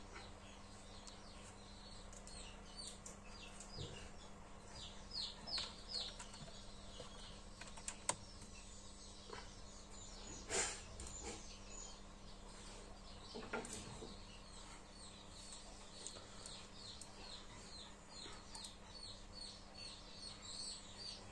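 Faint birds chirping, a long run of short falling chirps, with a few sharp clicks and a low steady hum underneath.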